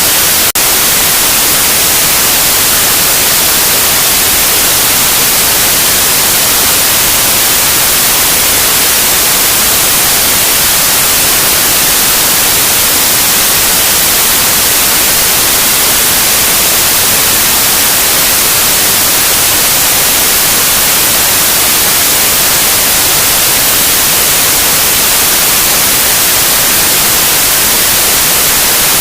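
Loud, steady white noise: an even, unchanging hiss, with one brief click about half a second in.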